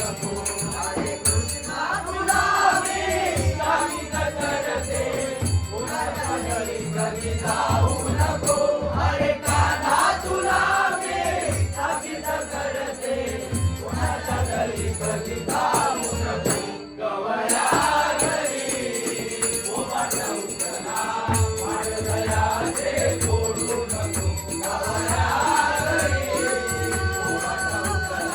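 Traditional Konkan devotional bhajan: voices singing a bending melody over a steady, even drum beat, with jingling percussion. The music drops out briefly about two-thirds of the way through, then resumes.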